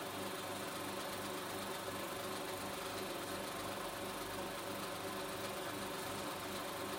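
16mm film projector running: a steady mechanical whirr with a regular pulsing hum and hiss, unchanging throughout.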